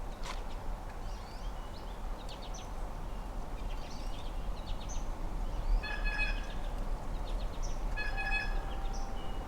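Wild songbirds chirping and calling at a backyard feeder: many short, high chirps throughout. A longer, buzzier call with several stacked tones comes about six seconds in and again about two seconds later. A steady low rumble of outdoor background noise lies underneath.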